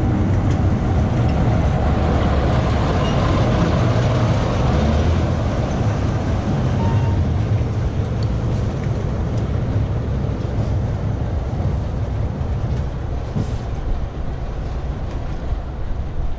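A train running past on the line: a heavy, steady rumble that is loudest in the first few seconds and gradually fades away.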